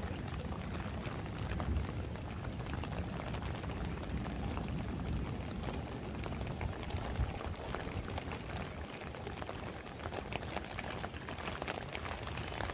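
Heavy rain falling steadily, a dense patter of many separate drops over a low rumble.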